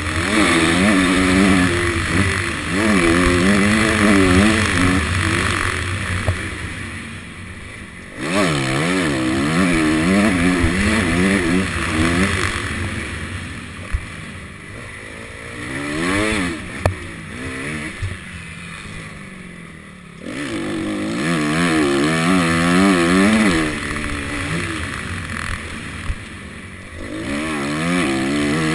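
Honda CRF250 four-stroke single-cylinder dirt bike engine heard from the rider's helmet. It revs up and falls away again and again as the throttle is opened and shut, in about five surges with quieter drops between them, over steady wind hiss.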